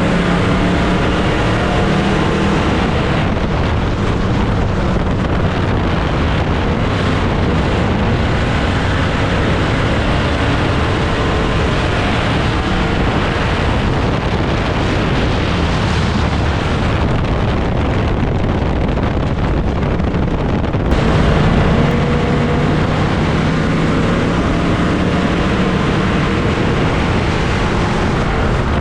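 Dirt-track race car engines running steadily and loudly, with wind buffeting the microphone. The engine pitch is clearest near the start and near the end, and there is an abrupt change in the sound about two-thirds of the way through.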